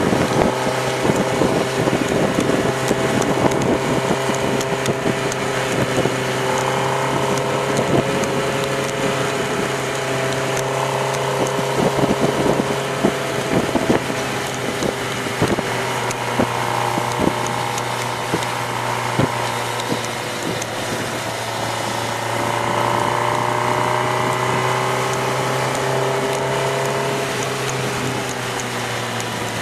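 Inline-four sport motorcycle engine running at a steady cruise, its note drifting slowly up and down. Wind buffets the microphone, with many short thumps in the first half.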